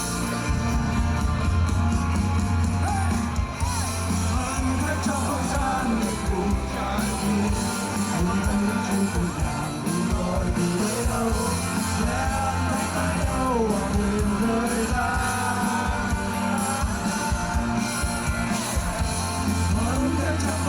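Rock band playing live, with a bending melodic lead line over a steady bass and drum backing.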